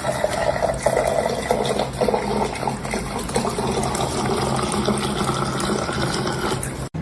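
Running or pouring water, steady, with a faint tone that rises slowly.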